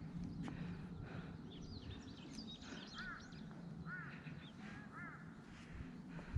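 Wild birds calling in forest: a flurry of quick high whistled notes, then three matching arched call notes about a second apart, over a low steady rumble.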